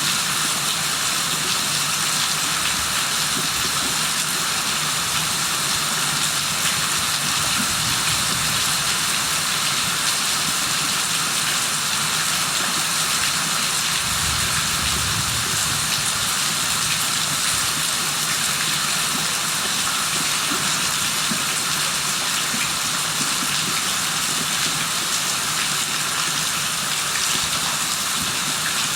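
Steady rain falling in an even, unbroken hiss, with a low rumble swelling briefly about halfway through.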